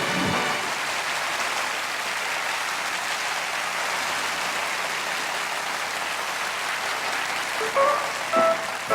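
Concert audience applauding, a steady even clatter right after the band stops playing. Near the end a few short instrument notes sound as the band starts the next song.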